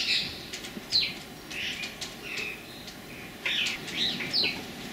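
Wild birds singing: a run of short, high chirps and quick downward-sweeping whistled notes, with a denser flurry of calls toward the end.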